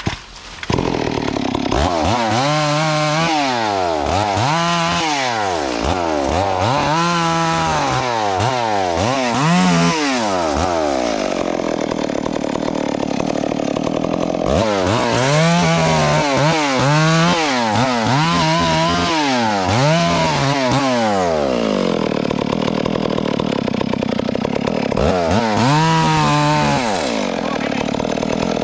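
Two-stroke chainsaw running hard, its engine revved up and back down again and again, with steadier stretches between the revs.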